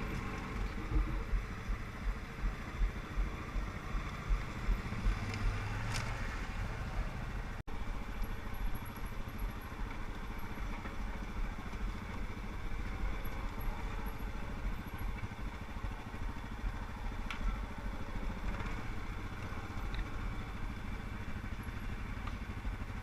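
ATV engine running, with a run of regular pulses in loudness over the first few seconds.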